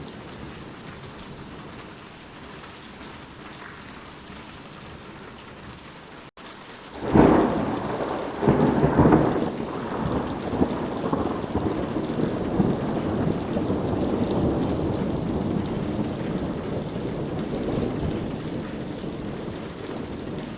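Steady rain falling, then about seven seconds in a loud thunderclap breaks out with a few heavy cracks and rolls on as a long rumble that slowly fades under the rain.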